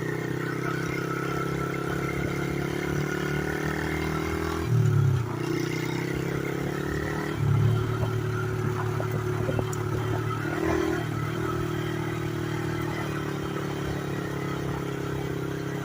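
Small pit-bike engine of a home-built three-wheeler running under way with a steady drone, briefly louder as the throttle opens about five seconds in and again near eight seconds, with some clatter from the machine over the dirt.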